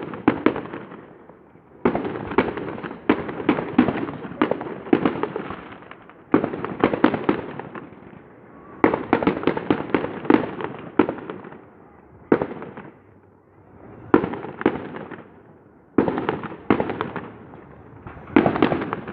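Fireworks show: aerial shells bursting in quick volleys of sharp bangs, each trailing off in a rumble, with short lulls between volleys.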